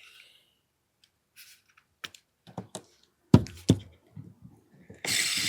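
Small clicks and knocks of an AAP-01 airsoft pistol's parts being handled and pried out by hand, with one sharp knock about three seconds in, then a brief hissing scrape near the end.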